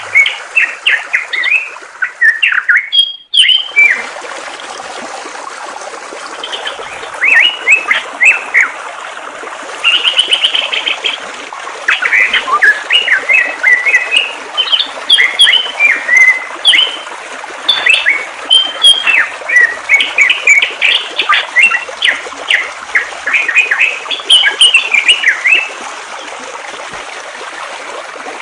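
A songbird singing in quick runs of short, high chirps over the steady rush of flowing water, with a brief dropout about three seconds in.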